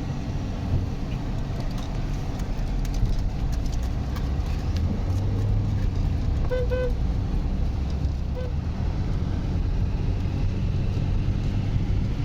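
Steady low rumble of a motor vehicle running. Two short pitched toots come about six and a half seconds in, and a third near eight and a half seconds.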